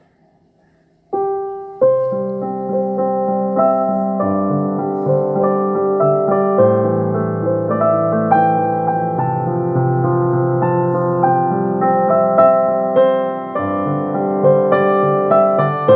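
Piano music: a melody over chords, with notes changing regularly. It starts about a second in, after near silence.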